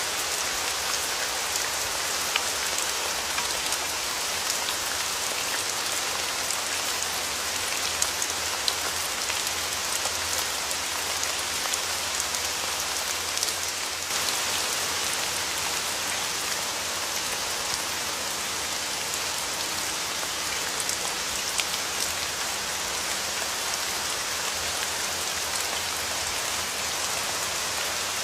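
Rain falling steadily as an even hiss, with single drops ticking sharply here and there.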